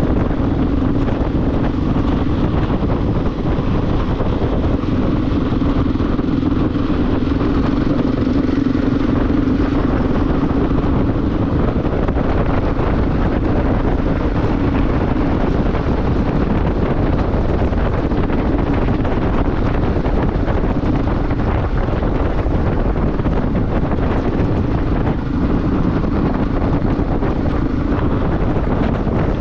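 Motorcycle running at a steady cruise, its engine drone holding a fairly constant pitch under loud, continuous wind rush on the microphone.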